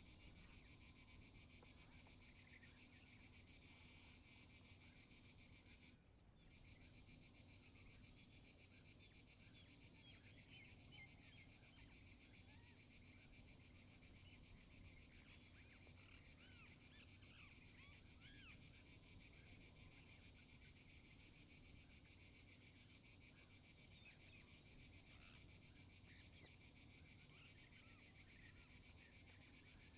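Faint steady chorus of insects buzzing and shrilling, with a few faint chirps; it drops out briefly about six seconds in.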